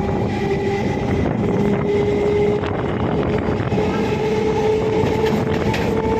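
Suburban EMU train running along the track: a steady rumble of wheels and carriage with a motor whine that rises gradually in pitch.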